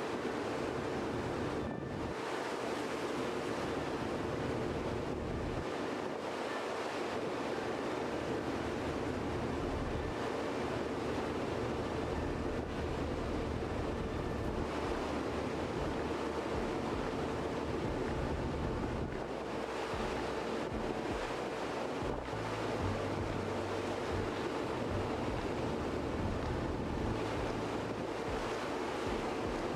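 Steady rush of wind and sea at a ship at sea, with wind buffeting the microphone and a steady low hum underneath.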